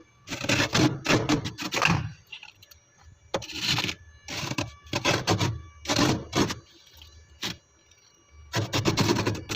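Freezer frost ice crunching in quick, sharp strokes: a fast run at the start, single crunches spaced out through the middle, and another fast run near the end.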